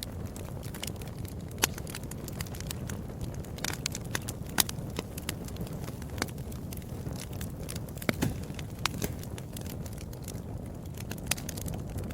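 Wood fire crackling: irregular sharp pops and snaps over a steady low rush of burning. The loudest pops come about one and a half, four and a half and eight seconds in.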